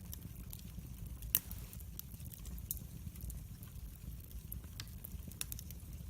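Wood fire in a fireplace crackling: many small pops with one louder snap about a second in, over a steady low rumble of the flames.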